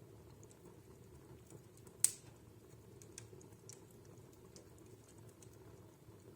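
Wood fire crackling in a fireplace: scattered small sharp crackles over a low steady hum, with one much louder pop about two seconds in.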